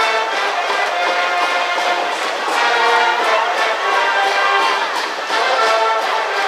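School brass band playing a baseball cheering tune, with sustained brass notes.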